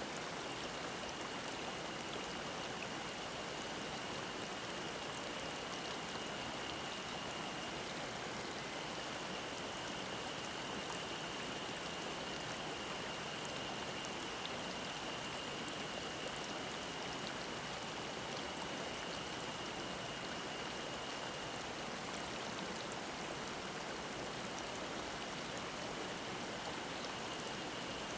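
Mountain stream babbling steadily, with a cicada's steady high-pitched drone singing over it.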